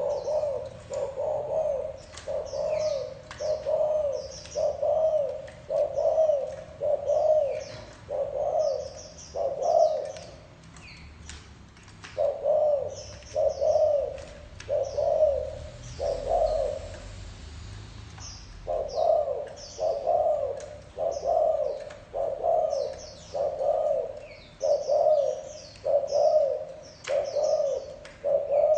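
Spotted dove cooing: a run of low, arched coos repeated about once a second, broken by two short pauses. Small birds chirp faintly in the background.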